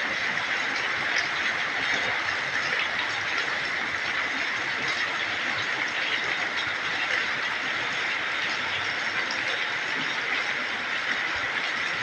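Heavy rain falling, a steady, even downpour with faint scattered ticks.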